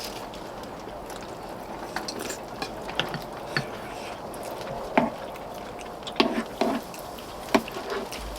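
Metal spoons and chopsticks clinking and scraping against bowls during a meal: scattered sharp clicks, the loudest about five seconds in and a cluster near the end, over a steady background hiss.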